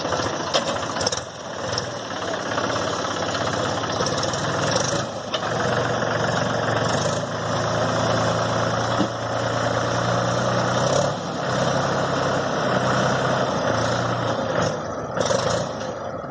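Tractor diesel engine running steadily, its low engine note clearest through the middle stretch, from a tractor working stuck in mud.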